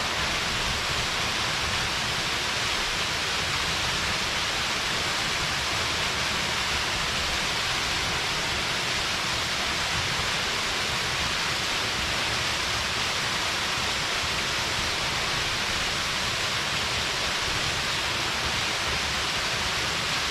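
Small mountain waterfall pouring steadily: an even, unbroken rush of falling water.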